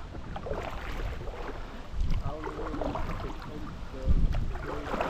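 Kayaks moving on a river: low steady water and paddling noise with wind buffeting the microphone, and faint voices in the background.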